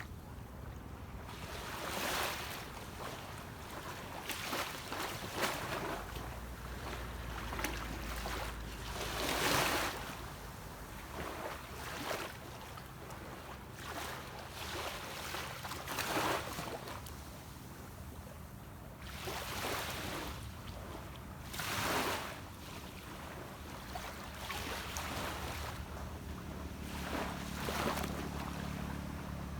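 Sea waves washing onto a beach in repeated swells every few seconds. Under them a distant boat's engine hums low and steady, growing a little stronger near the end.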